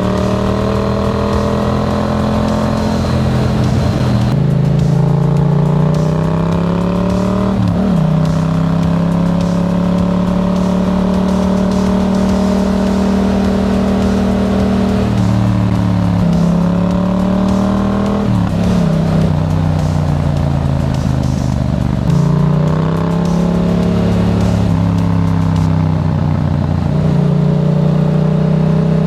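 Yamaha MT-07's parallel-twin engine through a Black Widow aftermarket exhaust under way. The engine note holds or climbs slowly, then drops sharply and builds again about six times as the rider changes gear and rolls the throttle on and off.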